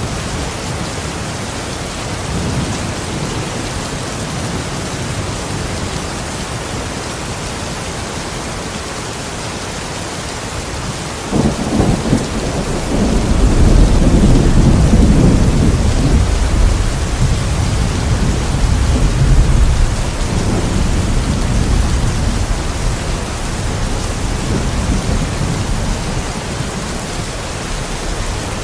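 Steady rain falling outside a window, with a thunderclap that cracks about eleven seconds in and rolls on as a deep rumble, fading away over roughly ten seconds.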